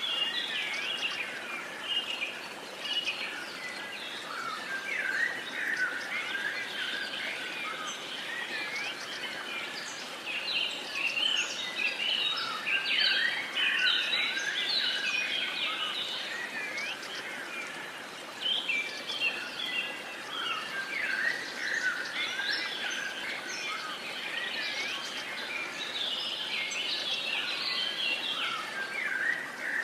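A chorus of many birds chirping and singing at once, with short overlapping calls and whistles throughout over a faint steady background hiss.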